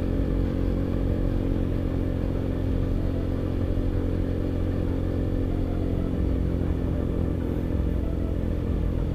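Motorcycle engine running at a steady, even speed while riding.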